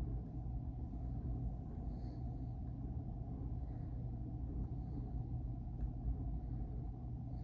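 Steady low rumble of a passing freight train, heard muffled from inside a room with the window shut.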